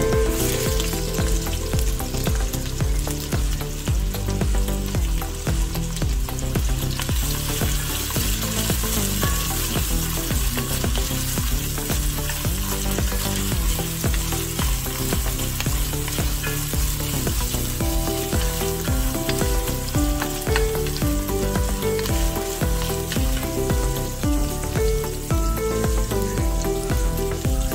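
Diced onions sizzling as they sauté in hot oil in an enamelled pot, with a wooden spoon stirring them. Background music with a changing bass line plays underneath.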